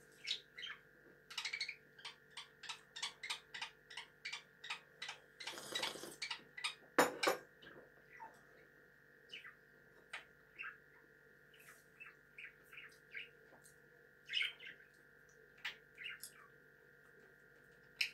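Caged pet bird chirping in quick short calls, several a second at first, then sparser. A brief rustle and a sharp knock come about six and seven seconds in, over a faint steady hum.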